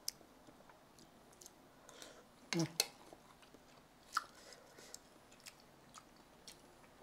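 Close-miked chewing of a mouthful of fried rice, with faint small clicks and a sharper click of the metal spoon on the plate a little after four seconds in. A brief vocal sound comes about two and a half seconds in.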